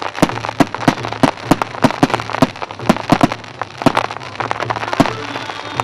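Fireworks display: an irregular rapid run of sharp bangs and crackles, several a second.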